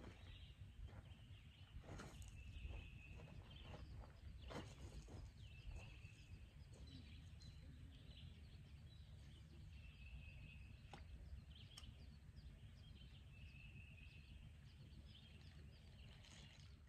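Faint lakeside ambience: a bird repeats a short, even-pitched call every few seconds over a low steady rumble, with a few faint clicks.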